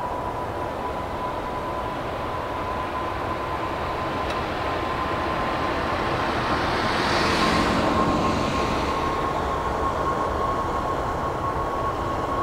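Boeing 777 jet engines at takeoff power: a steady whine with a rushing roar that swells to its loudest about seven to eight seconds in, then eases slightly.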